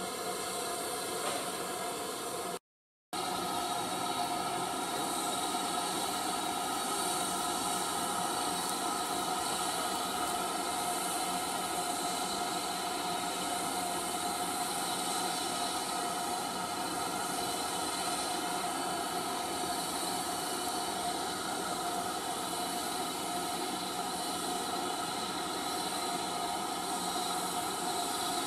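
Steam train: a steady hiss with several steady tones held throughout, cutting out briefly about three seconds in.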